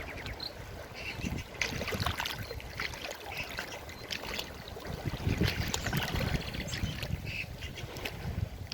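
Forest river water flowing, with uneven splashing and gurgling.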